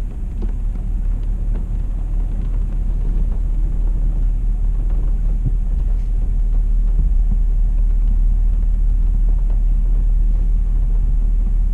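Low, steady rumble of a car driving slowly, heard from inside the cabin, growing a little louder over the first few seconds.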